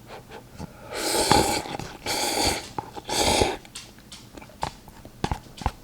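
A man breathing hard through the mouth, three heavy panting breaths about a second apart, from the burn of very spicy noodles, followed by a run of small clicks.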